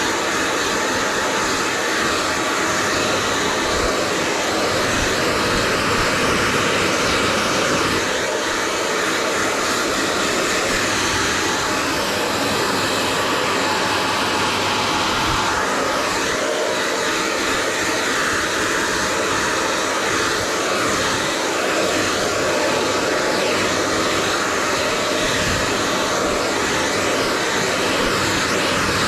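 Hair dryer blowing steadily at constant speed, a dense rushing noise with a faint steady motor hum, with small shifts in the airflow as the dryer is moved through the hair.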